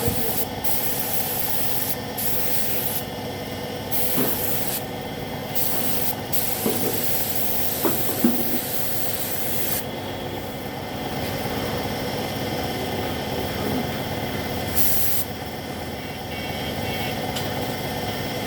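Air spray gun hissing in repeated on-off bursts as paint is sprayed onto motorcycle body panels, the bursts coming mostly in the first half, over a steady background hum.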